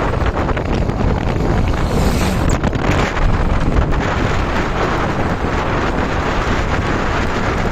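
Motorbike engine running under loud, steady wind buffeting on the microphone, with a few brief clicks about two to three seconds in.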